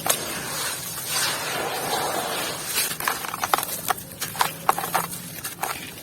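Dry, dusty crumbly material being crumbled by hand: a hiss of falling crumbs and dust for about the first three seconds, then a string of sharp crunching cracks.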